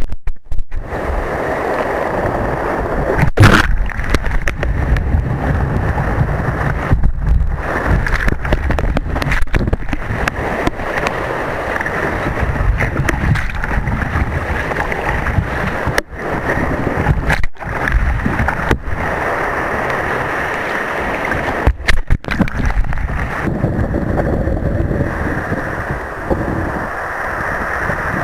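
Water rushing and splashing around a kayak surfing in waves, with wind buffeting the microphone. The sound drops out sharply for a moment several times.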